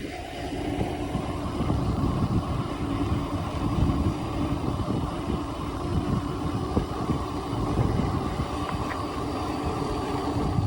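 Mountain bike rolling along a paved road: a steady hum of knobby tyres on tarmac, with wind buffeting the microphone.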